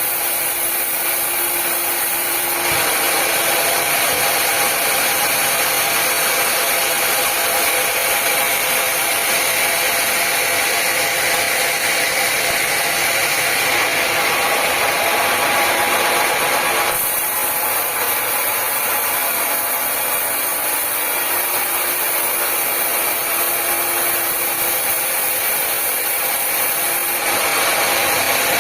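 Power saw running and cutting through wood: a steady, loud machine hiss. Its tone shifts abruptly about 3, 17 and 27 seconds in.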